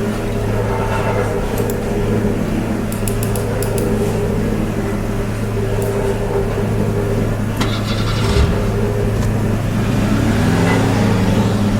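A steady motor hum, engine-like and even in pitch, with a few light clicks and knocks over it.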